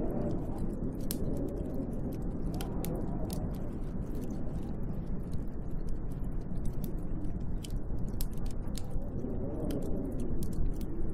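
Snowstorm wind blowing outside a window: a steady low rush that swells into gusts with a moaning tone, about three seconds in and again near the end, with many faint crackling ticks scattered through it.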